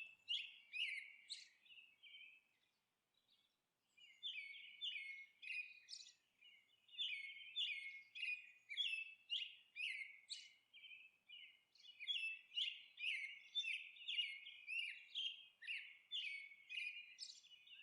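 Small birds chirping and twittering in a string of quick, high, faint notes, stopping for about two seconds near the start before carrying on thickly.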